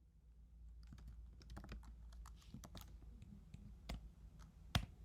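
Typing on a computer keyboard: irregular key clicks, with one sharper, louder click near the end, over a low steady hum.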